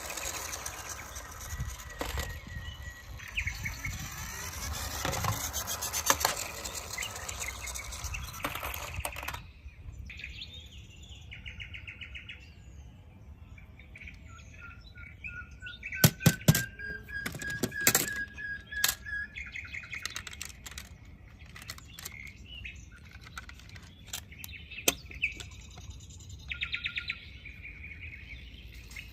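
Small birds chirping, with scraping and rubbing for the first several seconds, then a few sharp clicks and a slowly rising whistle-like tone midway.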